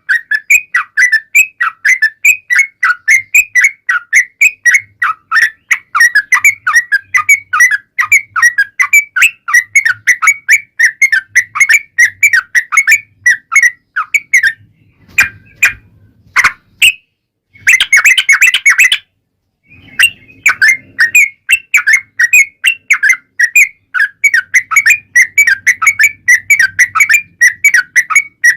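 Yellow-vented bulbul (trucuk) singing a long, fast run of chirping notes, about four a second, broken by a short pause about two-thirds of the way through before the run starts again.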